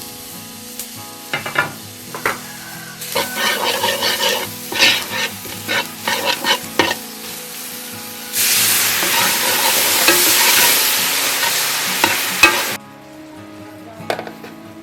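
Food frying in a pan of hot oil, with a utensil scraping and clicking as it is stirred. About eight seconds in, a loud, steady sizzle starts, then cuts off suddenly some four seconds later.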